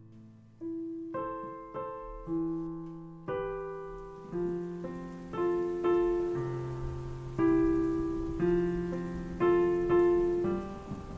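Piano playing a slow melody, single notes and chords struck about once or twice a second and left to ring out. Steady rain hiss rises underneath from a few seconds in.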